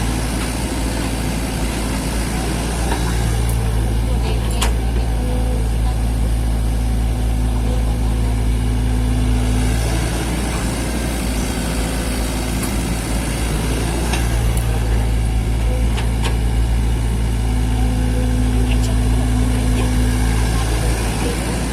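Mini excavator's engine running steadily, with a deeper hum that comes in for several seconds, drops away, and comes back, and a few faint clicks.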